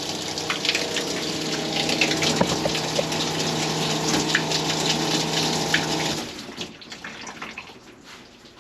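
Small electric water pump of a truck camp shower running with a steady hum while water gushes out where a hose fitting has blown off the pump; the pump stops about six seconds in.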